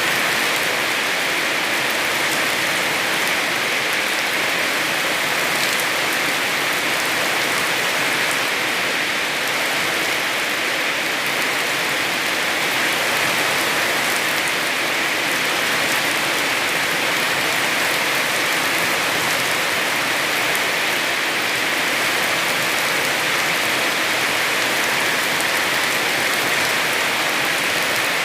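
Heavy rain falling steadily: an even, unbroken hiss of rain with no thunder.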